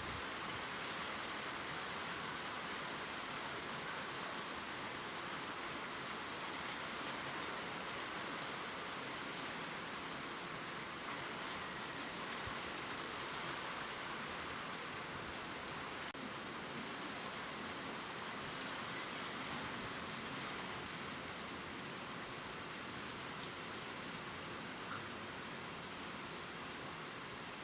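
Steady gentle rain pattering on leaves, an even hiss with faint scattered drop ticks.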